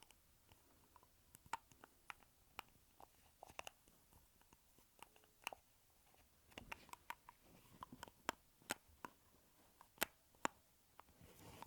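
Lipstick tubes and caps handled close to the microphone: irregular small clicks and taps, a couple of them sharper near the end, with brief soft rustling in between.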